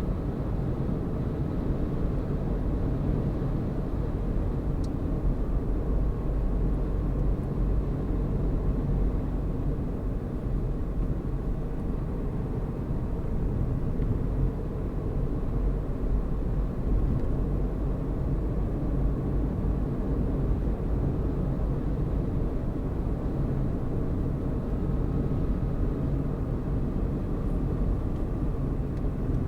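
A car driving at a steady speed: constant low engine and tyre rumble on the road.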